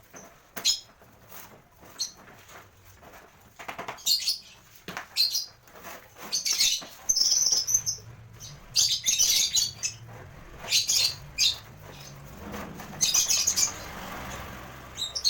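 Caged lovebirds calling in short, shrill chirps, coming in clusters every second or two.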